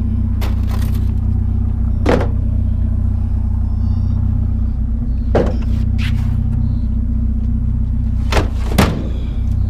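A vehicle engine running steadily at idle, a low even hum, with several sharp clunks and knocks about a second and a half, five, six and eight and a half seconds in.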